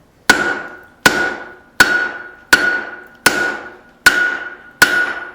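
Blacksmith's hammer striking hot steel over an anvil's horn in a steady rhythm, drawing out the tong reins: seven blows, a little more than one a second, each leaving a short metallic ring.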